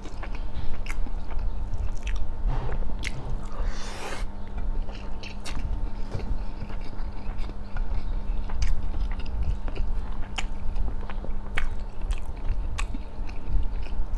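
Close-miked chewing of chicken rice and roasted chicken, with scattered wet mouth clicks and lip smacks throughout. A steady faint hum runs underneath.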